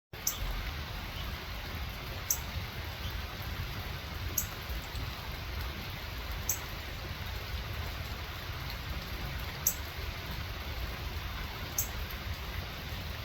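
Northern cardinal giving short, sharp high chip calls, six of them about two seconds apart, over a steady hiss.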